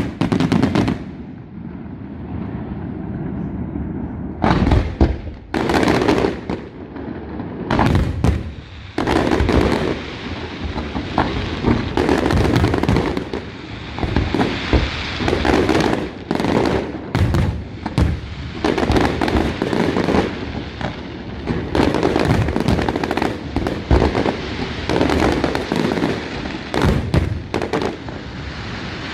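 Aerial fireworks display: shells bursting in rapid succession, the bangs coming closer together and running into one another from about ten seconds in.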